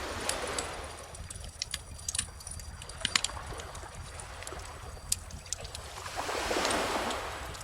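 Bonfire crackling with scattered sharp pops, over gentle ocean waves washing in: one swell at the start and a louder one about six seconds in.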